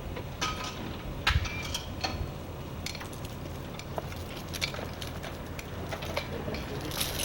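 Scattered metallic clicks and clinks of hand tools and metal parts being handled, with a louder cluster of clinks near the end.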